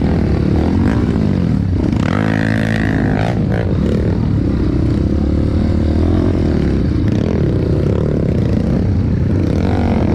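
Trail motorcycle engine running loud and steady throughout, with a brief stack of engine tones about two seconds in.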